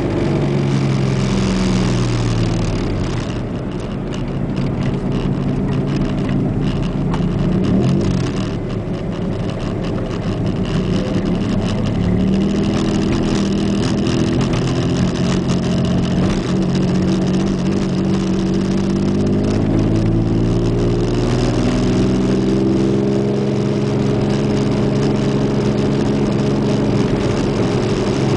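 Pontiac Fiero's engine heard from inside the cabin as the car slows and drives back after a drag-strip pass: the engine note falls over the first few seconds, then runs at low, fairly steady revs with a couple of gentle rises in pitch.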